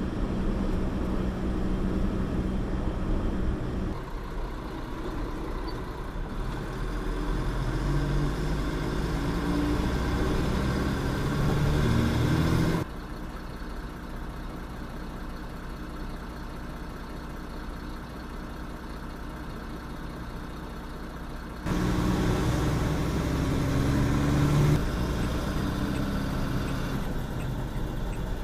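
Truck engine running on the road, its pitch climbing as it pulls up through the revs. It drops suddenly to a lower, steadier sound about halfway through, then climbs again for a few seconds before falling back.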